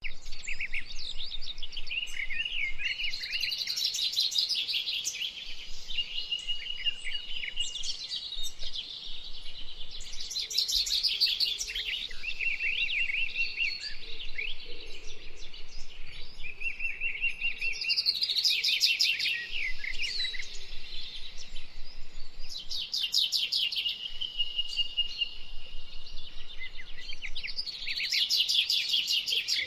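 Songbird singing: long varied phrases of fast trills, rapid chirps and held whistled notes, each phrase returning every few seconds.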